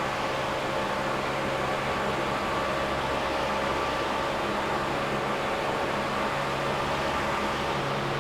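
A steady engine drone at a constant speed, with a few held tones over an even rushing noise and no revving or changes.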